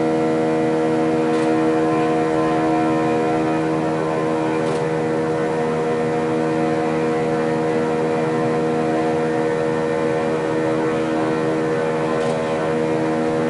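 Steady machine hum made of several steady tones, unchanging in pitch and level, with a few faint ticks.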